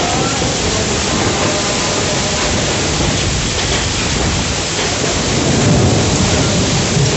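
Heavy storm rain pouring steadily, with a low rumble swelling up about five and a half seconds in.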